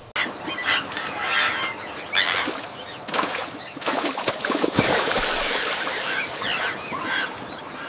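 Birds calling and squawking over a dense, noisy background, with sharp clicks here and there.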